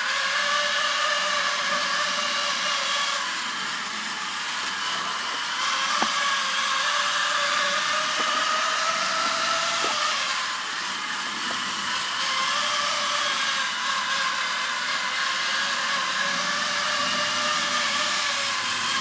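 Schuco Radiant 5600 battery-powered tin toy airplane running: its small electric motor whirs steadily, the pitch wavering slightly, with a couple of light clicks.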